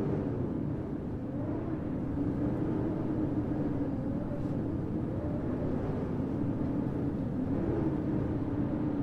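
Blizzard wind blowing steadily, with a low howling tone that slowly wavers up and down in pitch over a dense rumble.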